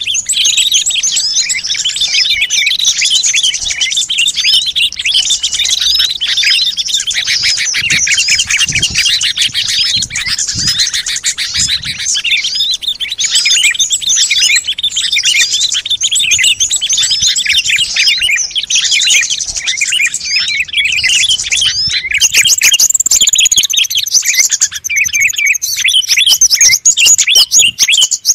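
Bird-lure recording of many small songbirds chattering at once: dense, overlapping rapid chirps and twitters without a break. About three-quarters of the way through, the mix changes to higher, sweeping calls.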